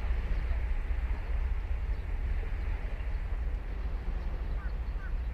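Ocean surf washing on a sandy beach, with wind rumbling on the microphone and a few short high chirps near the end.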